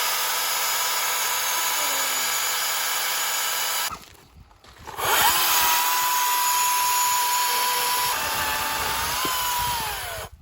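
Greenworks 40V cordless electric chainsaw run up twice: a steady motor whine for about four seconds, a second's pause, then about five seconds more before it cuts off. It is being run to check that the chain oil is feeding.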